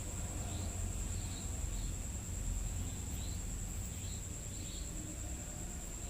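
Night insects trilling: one continuous high-pitched tone, with a few short chirps scattered through and a low rumble of background noise beneath.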